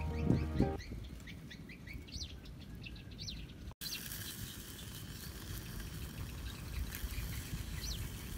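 Small birds chirping repeatedly, short rising calls, after a tune stops just under a second in. Partway through, a steady soft hiss joins them: the curry simmering and bubbling in a miniature clay pot.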